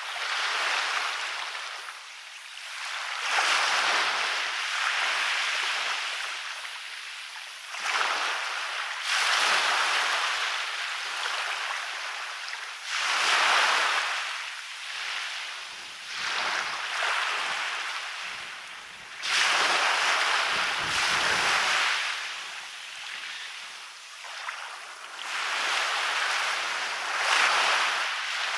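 Waves breaking on a beach and washing back up the sand, with a fresh surge of surf every few seconds.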